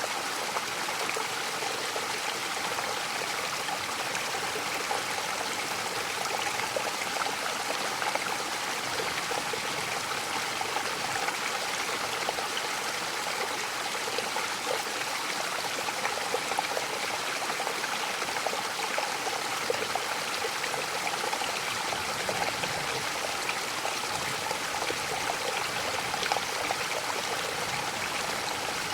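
Waterfall in the mountains, water rushing and splashing with a steady, even hiss.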